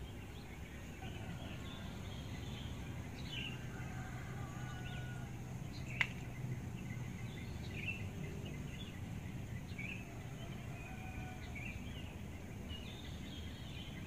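Wild songbird giving scattered short chirps and calls over a low steady hum of background noise, with one sharp click about halfway through.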